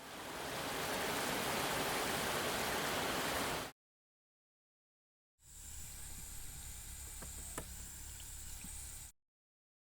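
Steady rushing, water-like noise that fades in and cuts off after about three and a half seconds; after a short gap, a quieter stretch of similar noise with a low rumble and a few faint clicks.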